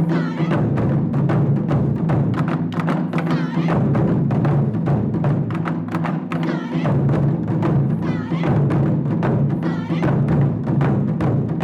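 Japanese taiko drum ensemble playing, a fast, steady stream of drumbeats over the deep ringing of the large drums.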